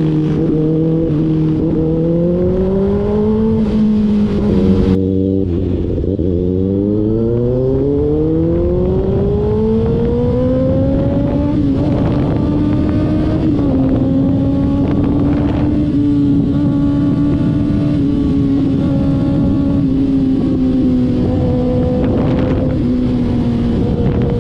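2024 Kawasaki ZX-6R's 636 cc inline-four engine accelerating: its note climbs, breaks off briefly about five seconds in, climbs again for several seconds, then settles into a steady, high note.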